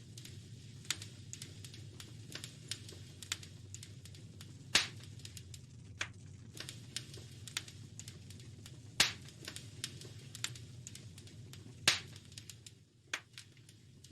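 Wood fire crackling in a fireplace: irregular small snaps and clicks over a low steady rumble, with three louder pops spaced a few seconds apart.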